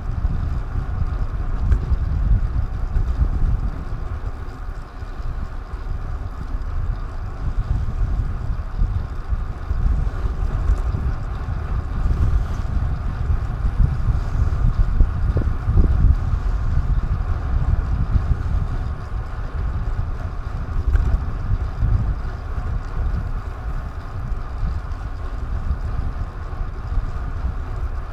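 Wind buffeting the microphone of a DJI Action 2 action camera while riding: a constant, gusty low rumble with a steady rushing hiss on top.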